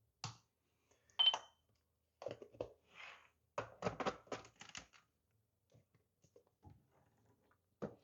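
Scattered clicks, taps and light knocks of small hard objects being handled, with a short beep about a second in, typical of setting up an espresso machine and cup.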